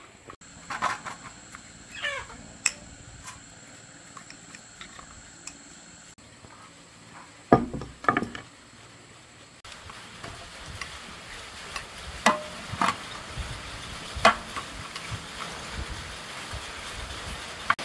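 Irregular knocks and clatter of tools and parts being handled during diesel engine repair work, with the loudest knocks about halfway through.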